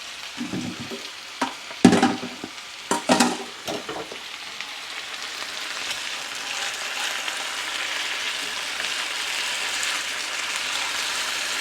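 Sliced potatoes and onions frying in oil in a skillet, a steady sizzle that grows louder partway through. A few knocks and scrapes in the first few seconds, in keeping with a metal spatula working the pan.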